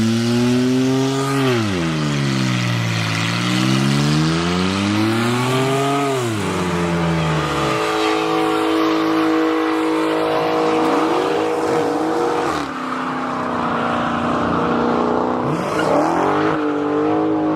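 Car engine revved hard, its pitch swinging up and down twice, then held high and steady with a hiss of spinning tires, dipping briefly a few times: a car doing burnouts or donuts.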